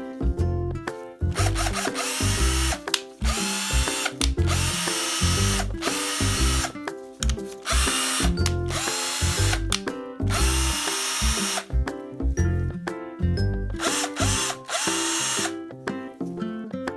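Battery-powered drill-type power tool, a cordless drill driver or impact driver, run in about ten short trigger pulls of a second or so each. The motor whines up in pitch as it spins up and cuts off between pulls, with a pause near the end. This is a quick function test showing the used tool's motor runs. Background music plays underneath.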